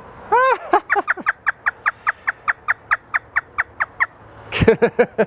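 African grey parrot mimicking a hysterical laugh. It gives a few arched notes, then a fast, even run of short falling notes at about five a second, with a louder burst near the end.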